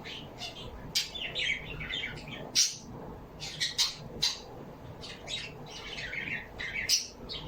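Birds chirping and squawking in a busy stream of short, sharp calls, several at once, with a few louder squawks standing out.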